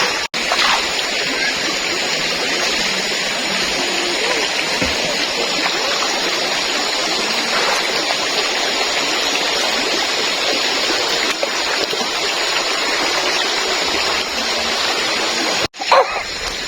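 Steady, even rushing of running water, with no change in level. It is broken by two sudden brief dropouts, just after the start and about a second before the end.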